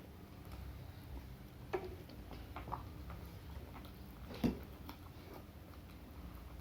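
Close-up mukbang eating sounds: a person chewing, with a few crisp bites or crunches. The loudest crunch comes about four and a half seconds in.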